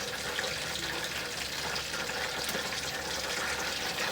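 Chicken deep-frying in hot oil: a steady sizzle with fine crackling.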